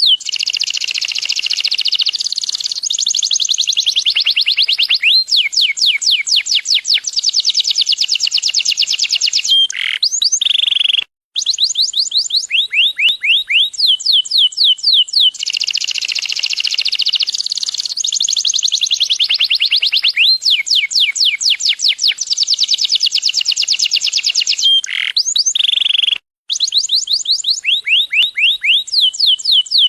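Yellow domestic canary singing loudly: fast trills of rapidly repeated rising whistled notes, changing speed from phrase to phrase, with a brief pause about eleven seconds in and again near the end.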